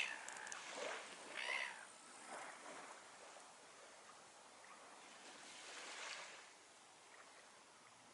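Gentle surf washing on the beach as a low, even hiss, with one wave swelling and fading about six seconds in. A few short, sharp sounds come in the first two seconds.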